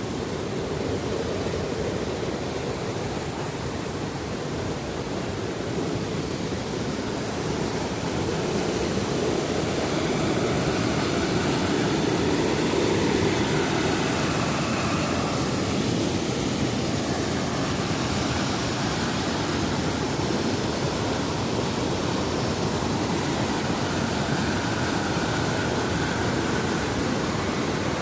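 Waterfall: a steady, loud rush of water falling onto rocks, swelling slightly partway through.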